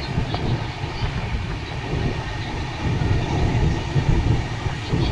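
Running noise of the Chennai-Puri Express passenger train heard from on board: a steady rumble of wheels on the rails.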